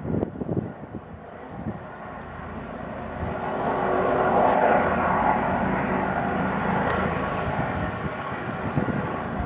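Police helicopter flying, its engine and rotor sound growing louder over the first few seconds and then holding steady. Low buffeting is heard near the start.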